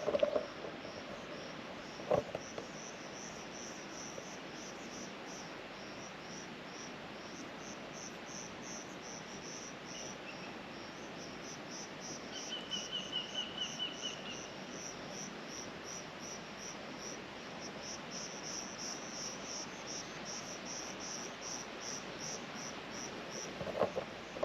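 Crickets chirping steadily in short high pulses, about three a second. Around the middle a second insect gives a brief rapid trill at a lower pitch. There is a single soft knock about two seconds in.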